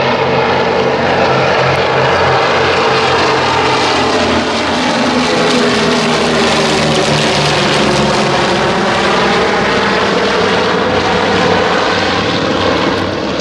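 B-24 Liberator bomber's four radial piston engines running at takeoff power, a loud, steady propeller drone.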